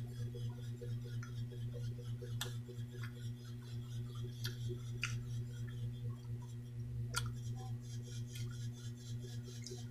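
Chewing a chocolate bar with nuts: a handful of sharp mouth clicks, spaced a second or more apart, over a steady low hum.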